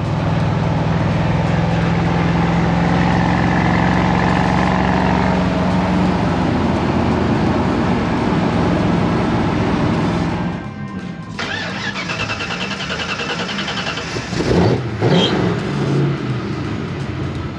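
A vehicle engine running steadily, then about ten seconds in changing to a rougher, uneven running with the revs rising and falling.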